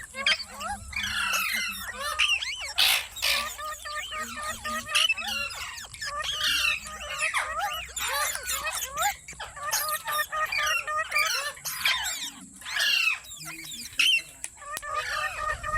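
Parrot chattering without a break: a fast run of short warbling, squawking calls that swoop up and down in pitch.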